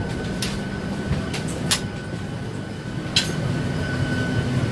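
Boeing 737 cabin noise with the airliner on the move: a steady engine hum under a thin steady whine, broken by sharp clicks and rattles every second or so, and growing a little louder near the end.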